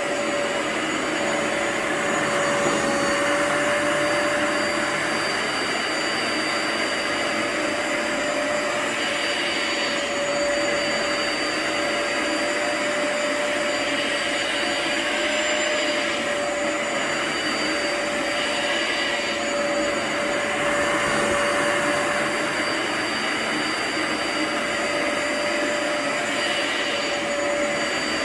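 Upright vacuum suction motor running steadily on a rug, with a constant whine over the rushing air, which swells and eases slightly every few seconds.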